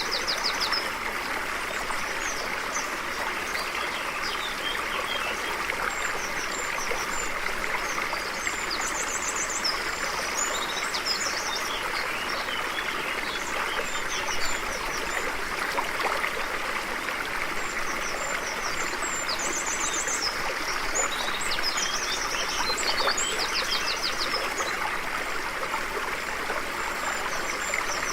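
A stream flowing steadily, with small birds chirping and giving quick high trills over it several times.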